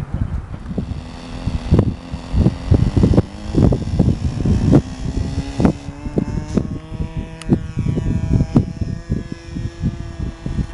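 Small .10-class model airplane engine running steadily, its pitch creeping up slightly partway through, with heavy wind buffeting on the microphone.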